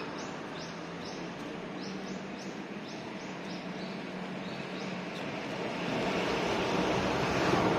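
A small bird calling a quick series of short high chirps, two or three a second, that stops about five seconds in, over a steady low hum. A broad rushing noise swells up near the end.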